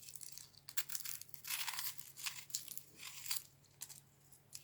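An onion being worked with a small vegetable knife: a series of short, irregular crinkles and crunches from its dry papery skin and flesh.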